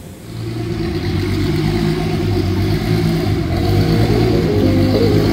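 A car engine running, building up over the first second and then holding loud and steady.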